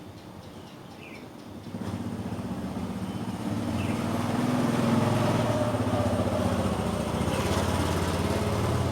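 A motor vehicle's engine running, growing louder about two seconds in and staying loud, like a vehicle coming close. A few short bird chirps sound faintly behind it.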